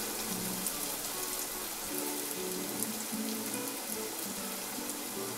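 Urad dal medu vadas deep-frying in hot oil, a steady crackling hiss, under soft background music playing held notes.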